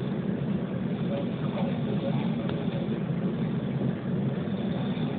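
Commuter train running, heard from inside the carriage: a steady low rumble.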